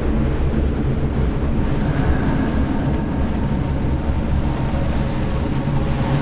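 Haunted-house ambience: a steady low rumbling drone with sustained deep tones, and a faint higher tone drifting in about two seconds in.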